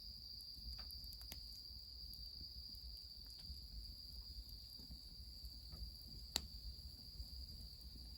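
Crickets trilling steadily in one high, even note, over a low background rumble, with a few faint snaps from a wood fire and one sharper crack a little past six seconds in.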